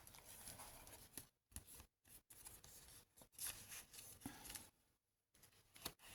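Faint, irregular rustling of paper with a few light clicks as the pages and tucked-in paper pieces of a handmade junk journal are handled and turned.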